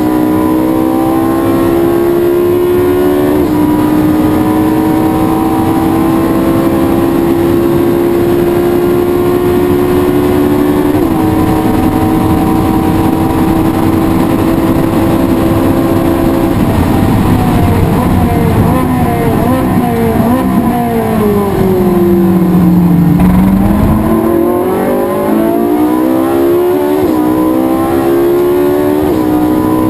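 Race car engine under full throttle, climbing in pitch through the gears with three upshifts, then falling away under braking as it drops through the gears for a corner about two-thirds of the way in, and pulling hard again with two more quick upshifts near the end.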